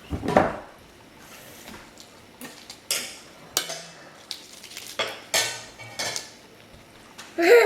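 Cutlery clinking and scraping on plates, in scattered short knocks at a meal table, with a brief vocal sound near the end.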